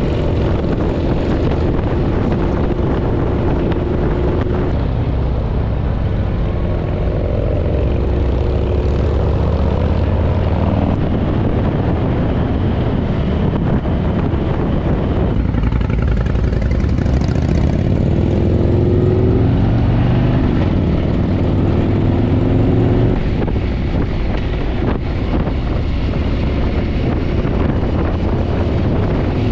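Harley-Davidson touring motorcycle's V-twin engine running under way on the road, its pitch rising and falling with the throttle.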